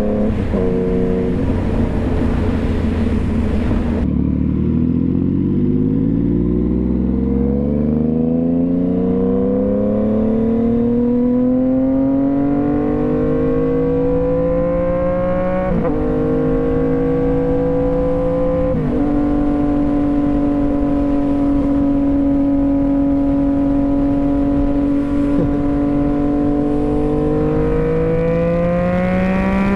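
Sport motorcycle engine heard from the rider's helmet: it slows down over the first few seconds, then pulls steadily up through the revs, with two quick upshifts about sixteen and nineteen seconds in, cruises at steady revs, and starts rising again near the end. Wind hiss is strong in the first few seconds.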